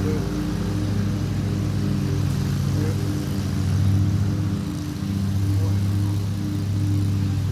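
Lawn mower engine running steadily at a constant speed, its level rising and falling a little as the mower moves about.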